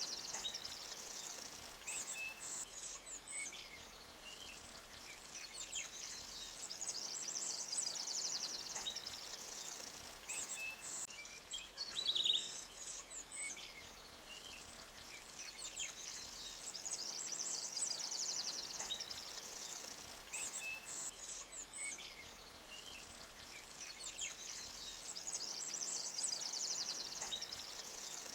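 Forest ambience: a high, fast-pulsing trill that swells and fades every several seconds, with short bird chirps scattered through it and one louder chirp about twelve seconds in, over a faint low hiss.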